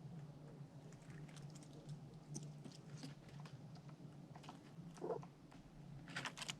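Squirrel gnawing food at a feeder: faint, irregular crunching clicks, with a quick cluster of clicks near the end, over a steady low hum.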